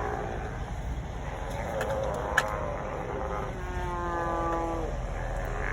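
A group of sea lions calling in overlapping barks and honks, with one long call about two-thirds of the way in that slides slightly down in pitch. A steady low rumble runs underneath.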